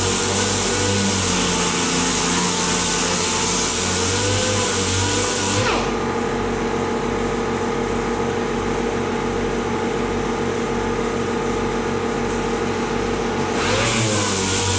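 A machine running steadily, with a hiss that drops away about six seconds in and comes back near the end.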